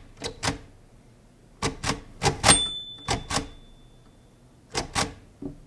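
Braille writer being typed on: about a dozen sharp mechanical key strokes, mostly in quick pairs, with a brief high ring after one stroke about halfway through.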